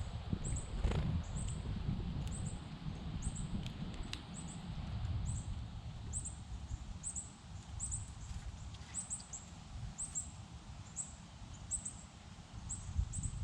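A series of short, high, thin chirps repeating somewhat irregularly, a little more than once a second, over a steady low rumble, with a few faint taps.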